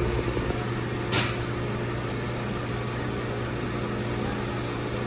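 Self-contained ice machine running, its condenser fan and compressor giving a steady hum with an even rush of airflow. A single short hiss cuts in about a second in.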